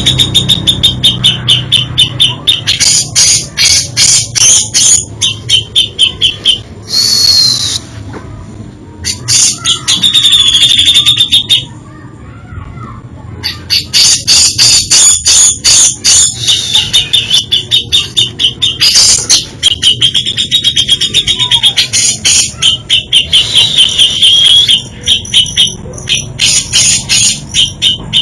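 Cucak jenggot (grey-cheeked bulbul) singing a fast, varied song of mimicked phrases: rapid runs of sharp repeated notes mixed with ringing high trills. It breaks off twice briefly, about a third of the way in and near the middle.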